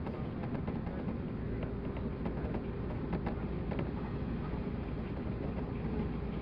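Running noise of a 185 series electric train heard on board: a steady rumble of wheels on rail with a few faint ticks.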